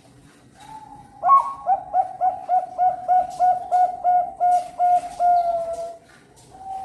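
Perkutut (zebra dove, Bangkok contest strain) singing one song: a soft opening coo, then a run of about a dozen quick, evenly spaced clipped coos at nearly four a second, ending in a longer note that falls away. One more short coo comes near the end.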